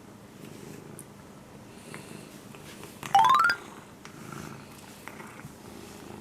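A Siberian kitten purring, a steady low rumble. About three seconds in, a short, loud rising tone climbs in quick steps for about half a second.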